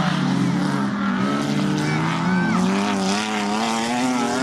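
Several banger racing cars' engines running and revving around an oval track, their notes rising and falling and overlapping.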